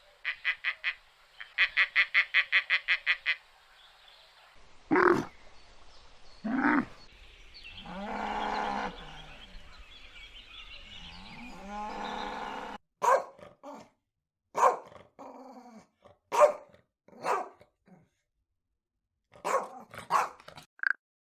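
Several different animal calls in succession. First comes a fast run of evenly repeated pulsed calls, then separate drawn-out calls, then a series of short, sharp calls.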